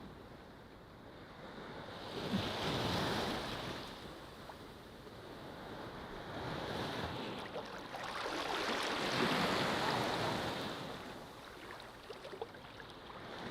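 Ocean waves washing onto a beach, rising and falling in slow surges: a wave about two seconds in and a larger one about eight seconds in, with a smaller wash between them.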